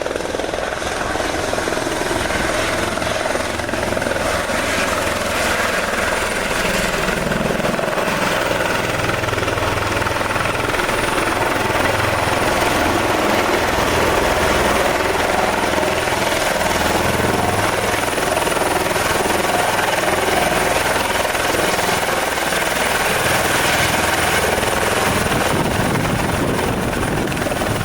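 Helicopter running: steady, loud rotor and engine noise with a faint high whine held throughout.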